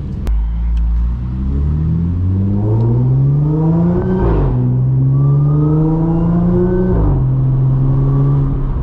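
Audi S4 B8.5's supercharged V6, running through an AWE exhaust with test pipes, accelerating from a stop. The engine note rises, drops at a gear change about four seconds in, rises again, drops at a second shift about seven seconds in, then holds steady.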